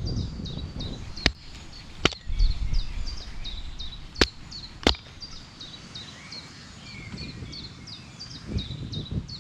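Outdoor woodland ambience: a high, quick chirp repeating about three or four times a second, with four sharp knocks or snaps in the first half.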